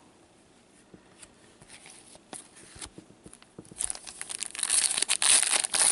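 Foil wrapper of a hockey card pack being torn open and crinkled, beginning about two-thirds of the way in after a few light clicks.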